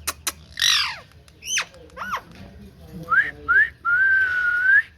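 Green ringneck parrot (rose-ringed parakeet) calling. A few clicks, then a falling squawk and two short chirps, then two quick rising whistles and one longer, nearly steady whistle that lifts at the end.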